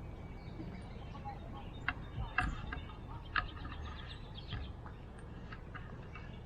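Birds chirping, with short sharp calls and a quick run of repeated notes a few seconds in, over a steady low outdoor rumble.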